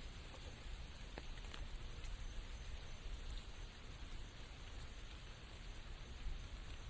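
Steady rain falling through forest, with a few sharp drips of raindrops striking close by.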